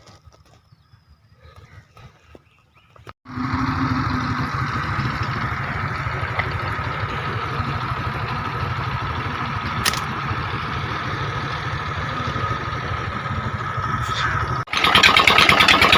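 A motor running steadily. It starts abruptly about three seconds in after near quiet, and it gets louder with a fast even pulse near the end.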